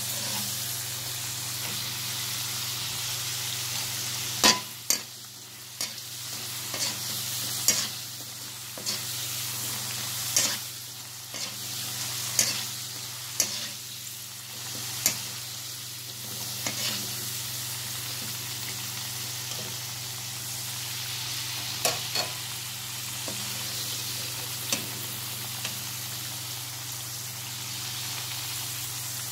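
Potato pieces frying in hot oil in a wok with a steady sizzle. A slotted spatula stirs them and now and then knocks and scrapes against the pan in sharp clicks.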